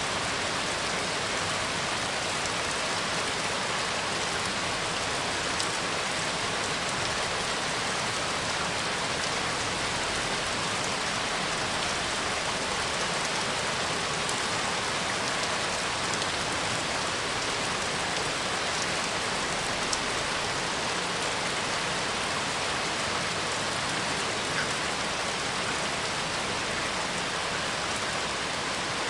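Steady rain falling and pattering on a surface, an even hiss with a few louder drops now and then.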